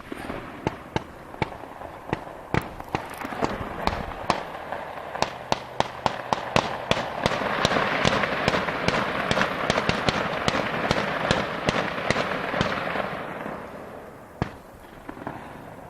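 Noise from a nearby racetrack: a rapid string of sharp cracks and pops, several a second, over a rush that swells to a peak midway and fades away near the end.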